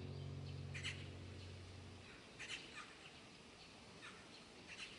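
A few short bird calls, faint and spaced out, over a low steady hum that stops about two seconds in.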